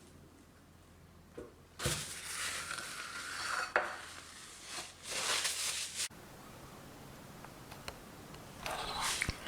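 Kitchen utensils scraping and clinking against cookware in three separate bursts of a second or two each, with a sharp click near the middle.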